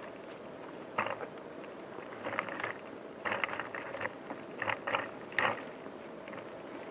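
Irregular crackling and scraping of someone moving through dry forest undergrowth, in about six short bursts over a steady hiss.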